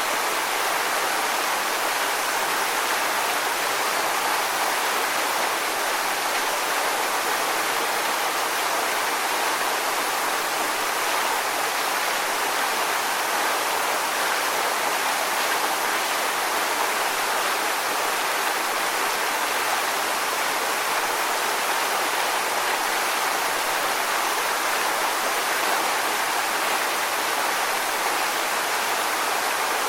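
Steady rushing water, an even hiss with no rise and fall of breaking waves.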